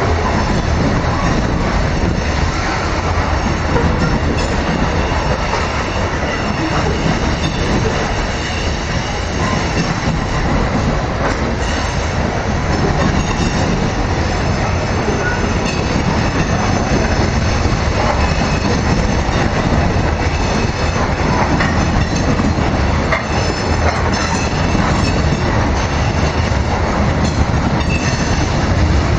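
Freight train of loaded grain hopper cars rolling past: a steady rumble of steel wheels on the rails with thin, high-pitched wheel squeal over it.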